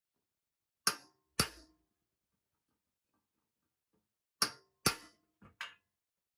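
Sharp metal-on-metal clanks with a short ring: a pair about a second in, another pair at about four and a half seconds, then two lighter knocks.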